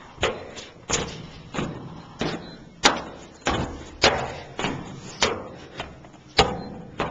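Footsteps of a person walking at a steady pace, about a dozen even steps at roughly one and a half per second.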